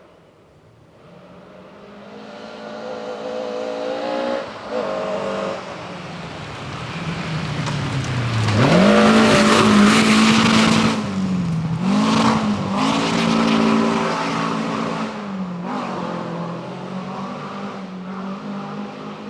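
Rally car approaching at speed, passing and driving away: the engine note swells, its revs climbing and dropping through several gear changes, with a rush of tyre noise where it is loudest midway, then fades.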